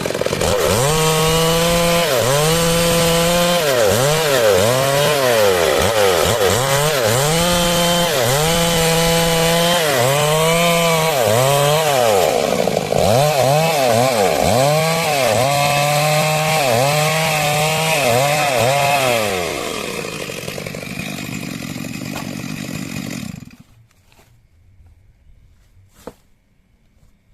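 Stihl MS 382 two-stroke chainsaw ripping through a log, its engine pitch sagging under load and picking back up again and again as the chain bites. About 19 seconds in it drops to a lower, steadier run, then stops suddenly a few seconds later; a single click follows near the end.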